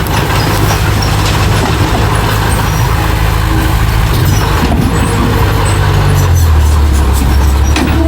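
Diesel engine of heavy earthmoving machinery running loud and steady under load; about six seconds in its note drops lower and grows slightly louder.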